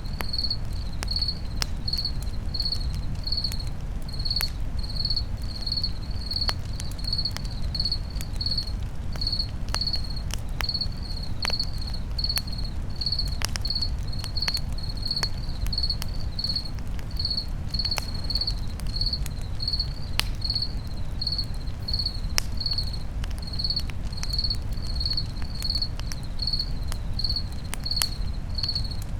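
Crickets chirping steadily, about two chirps a second, over a campfire crackling with scattered sharp pops and a low steady rumble.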